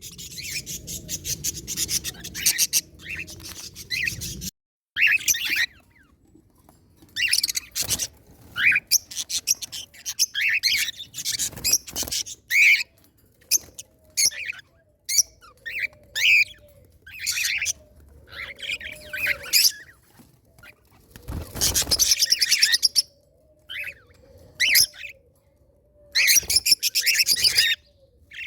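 Pet birds chirping and chattering in quick, high bursts, with short pauses between the runs.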